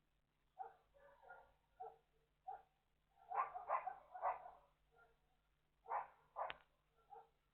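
A dog barking repeatedly in short barks, with a louder run of three barks about halfway through and two more loud ones near the end. A faint steady hum runs underneath.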